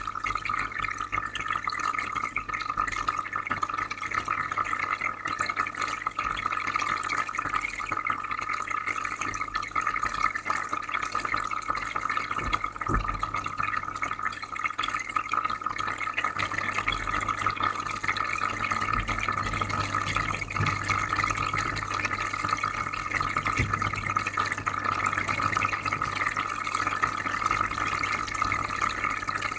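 Aquarium filter running: steady bubbling and trickling water with a low filter hum underneath.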